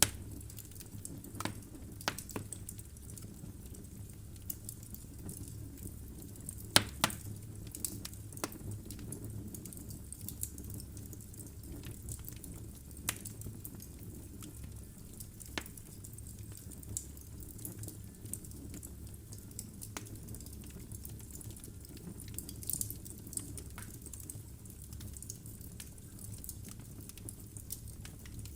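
Wood fire burning in a fireplace: a steady low rumble of the flames with irregular crackles and pops from the burning logs, the loudest pop about seven seconds in.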